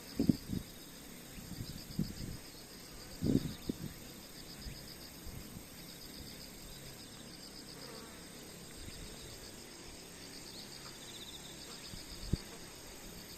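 Insects in the grass chirping in a steady, fast, high-pitched pulsing trill, with a few soft low thumps and rustles near the start, around two and three seconds in, and once near the end.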